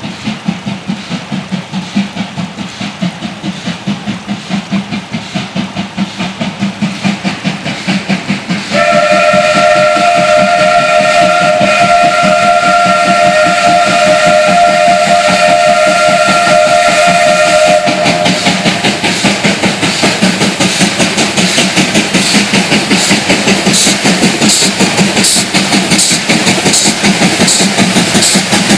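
WAGR W class steam locomotive W920 climbing a grade unaided, its exhaust beating in a steady rhythm. About nine seconds in it sounds a long whistle blast on two close notes, held for about nine seconds. Then the working exhaust beats carry on, sharper near the end.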